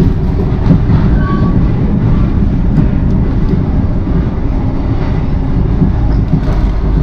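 Passenger train running, a steady low rumble and rattle heard from inside a carriage, with a few faint clicks.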